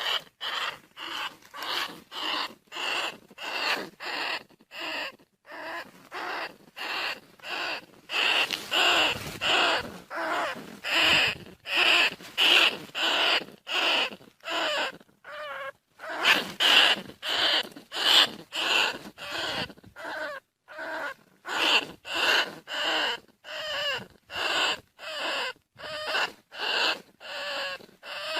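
Bandicoot rat calls used as a hunting lure: short squeaking calls repeated over and over, about one and a half a second, with brief gaps between them.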